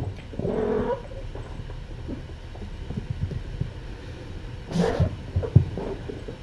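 Cats wrestling and playing: a short cat vocalisation in the first second, then a run of soft thumps and scuffles, with a brief sharp noisy burst about five seconds in.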